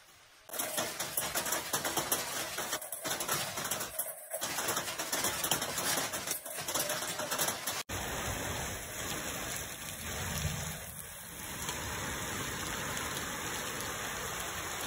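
Rain falling steadily, a dense patter of drops with a few brief dropouts. About eight seconds in the sound changes abruptly to a smoother, steadier hiss of rain.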